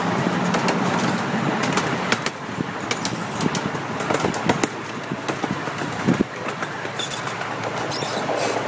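Small amusement-park ride train rolling along its track, heard from an open passenger car: a steady rumble and rattle of the cars with irregular sharp clicks and knocks from the wheels on the rails.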